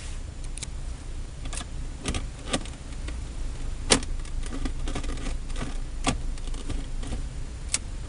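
Scattered sharp plastic clicks and knocks from the Mitsubishi Lancer's centre-console controls being handled (storage compartment, cigarette lighter and seat-heater switches), the loudest about four seconds in, over a steady low hum.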